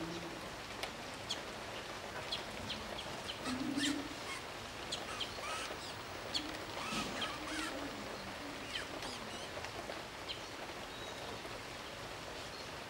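Birds chirping: many short, sharp high calls scattered through, with a few soft low calls in between.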